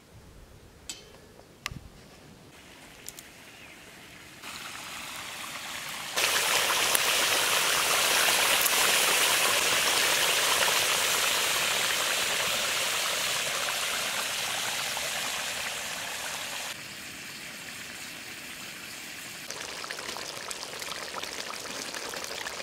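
Mutton curry sizzling in a kadai: a steady hiss that jumps louder about six seconds in and drops back a little past the middle. A few faint clicks come in the first two seconds.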